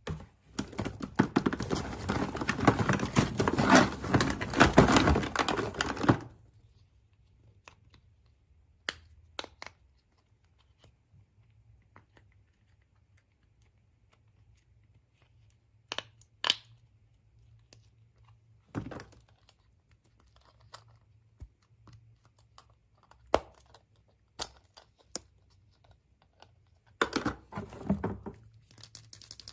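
Packaging being torn and crinkled by hand in a dense crackling burst for the first six seconds. Scattered single clicks and taps follow, then another short burst of crinkling near the end.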